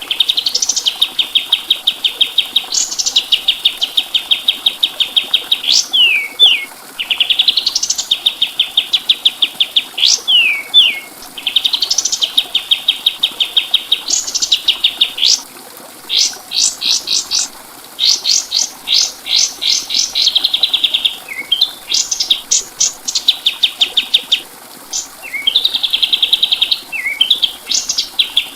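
Kapas tembak (pied triller) singing phrase after phrase of fast, rattling trills. Some trills are held steady, others open with a rising sweep, and short downslurred notes fall between the phrases.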